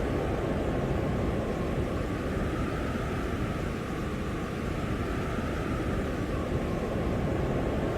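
Blizzard wind blowing hard and steadily, a low rushing noise that eases slightly about four seconds in.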